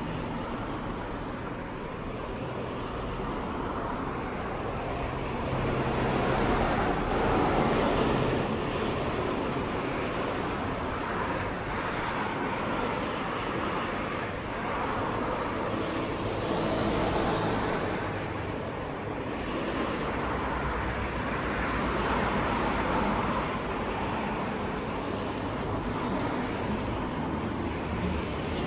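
Road traffic: cars passing one after another, each rising and fading, over a steady low hum.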